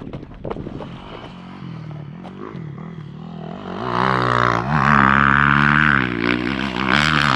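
Motocross dirt bike riding the track, its engine revving up and down through the gears. It grows louder as the bike comes closer and is loudest about five seconds in.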